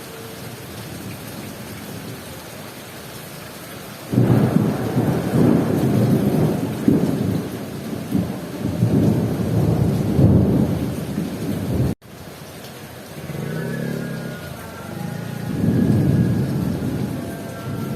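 Heavy rain falling steadily, then a loud rolling thunder rumble breaks in suddenly about four seconds in and swells and fades unevenly. The sound cuts out for an instant near the middle, and the rumbling builds again afterwards.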